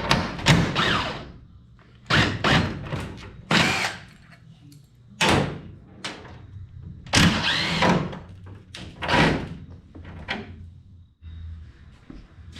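Cordless impact wrench with a 7/16 socket running in about eight short bursts, some winding up and down in pitch, as it backs out body bolts.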